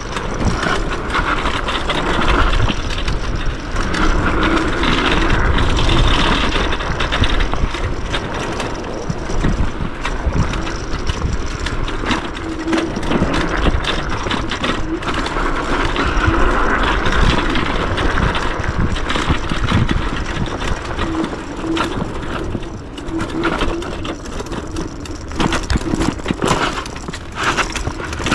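Yume X11 electric scooter ridden over a dirt trail: continuous tyre noise on the ground, with frequent small knocks and rattles from the bumps.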